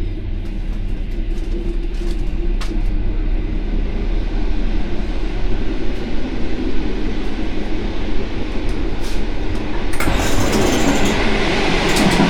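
Passenger train running along the rails: a steady low rumble of wheels and carriage, with scattered faint clicks. About ten seconds in the noise abruptly turns louder and hissier.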